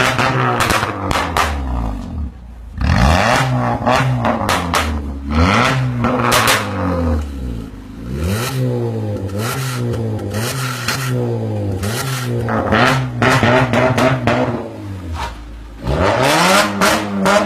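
Car engine and exhaust revved repeatedly in short blips, the pitch climbing and falling back about eight times from a low idle. Sharp crackles and pops sound through the exhaust between the revs.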